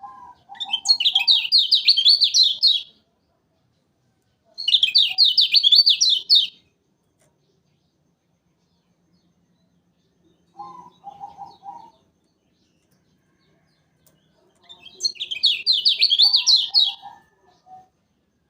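Kecial kuning, a Lombok white-eye, singing three loud bursts of rapid, fast-trilling chatter, each about two to three seconds long. A quieter, lower chirping phrase comes in between.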